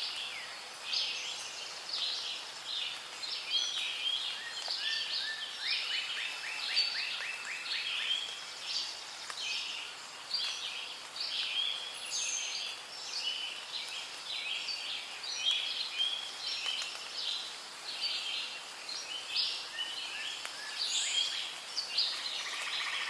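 Rainforest ambience: many birds calling and chirping at once in a dense, continuous chorus, with a rapid trill of evenly spaced notes about six seconds in, over a faint steady hiss.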